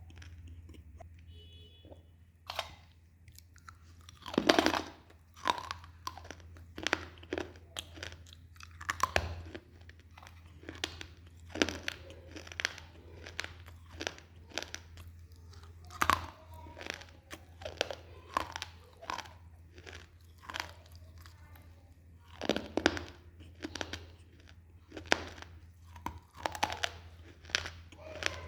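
Close-miked biting and chewing of crunchy baked clay, a string of sharp, irregular crunches about every second or two, over a steady low hum.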